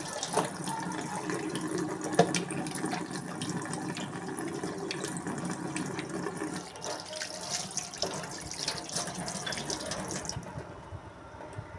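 Water running and splashing, as from a tap, with scattered small knocks; the flow stops shortly before the end.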